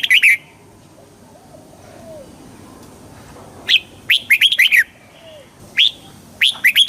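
Red-whiskered bulbul singing: short phrases of quick, clear whistled notes, one at the start and two more a couple of seconds apart in the second half.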